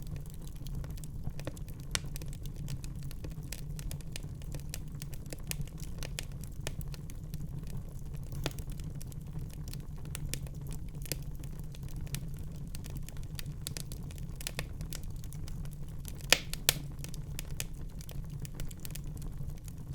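Wood fire in a fireplace crackling, with frequent sharp pops and snaps over a low steady rumble of the flames. Two louder pops come close together near the end.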